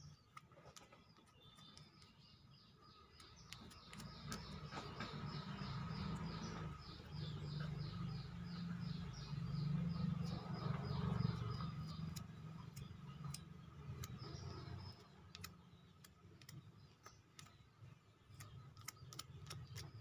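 A small bird chirping in quick, evenly repeated high chirps, about three a second, from about two seconds in until about fifteen seconds in. Under it a low rumble swells and fades in the middle, with a few faint clicks.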